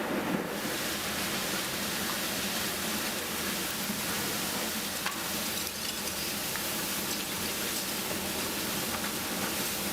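Heavy rain pouring down in a storm, a steady hiss.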